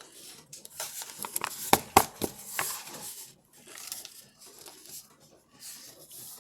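Close handling noise: rubbing and crinkling with several sharp clicks, the loudest of them about two seconds in.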